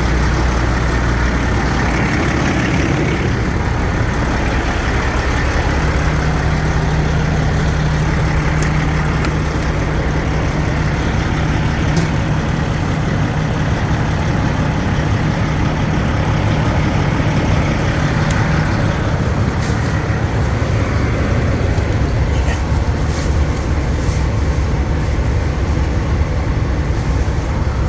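Heavy diesel truck engine running steadily with a deep drone; a slightly higher drone joins about six seconds in and fades out around nineteen seconds.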